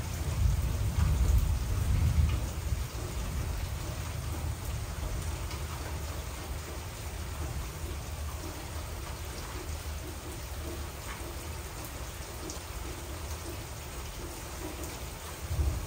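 Heavy rain falling steadily, with scattered drips. A low rumble of thunder dies away in the first two or three seconds, and another starts to build at the very end.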